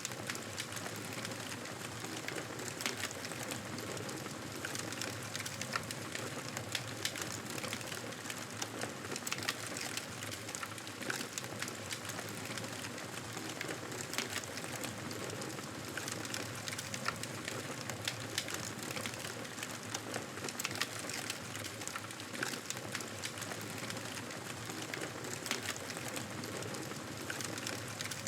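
Wood fire crackling in a fireplace: a steady hiss with frequent sharp pops and snaps at irregular intervals.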